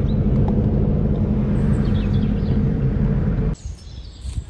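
Car driving: a steady low rumble of engine and road noise that cuts off sharply about three and a half seconds in, giving way to quieter outdoor background with faint high chirps.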